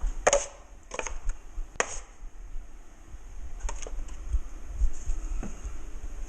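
Drywall taping knife clacking and scraping against a mud pan as hot-mud joint compound is loaded for a skim coat: a few sharp clacks, three in the first two seconds and two more close together near four seconds.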